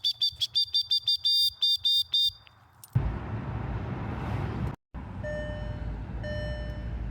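Rapid electronic beeping, about seven high beeps a second, stops after about two seconds. After a short lull a steady rushing noise starts. Over it, a repeating electronic tone sounds about once a second.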